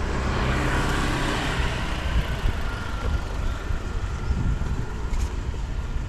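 A motor vehicle passing close by on the road, loudest in the first second and a half and then fading into general traffic noise.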